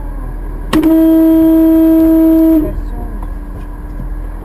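Car horn sounding one long, steady blast of about two seconds, starting under a second in and cutting off sharply, over the drone of a car interior on the road.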